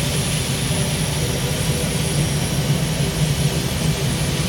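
Engines of a multi-engine modified pulling tractor running steadily during a lengthy start-up, in which each engine is fired up individually.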